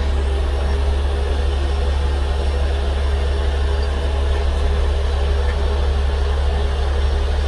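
Heavy truck's diesel engine running at a steady idle, a constant low drone.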